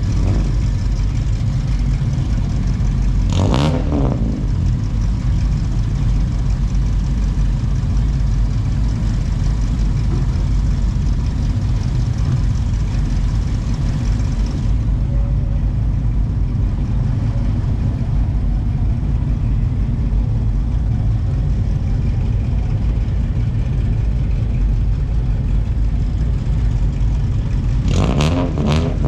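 Car engines running with a steady low rumble, briefly louder twice as something sweeps past, once a few seconds in and again near the end.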